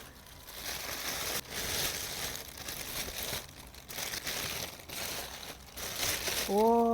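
Packaging crinkling and tearing as it is torn open by hand, in irregular bursts. Near the end a woman starts humming a held note.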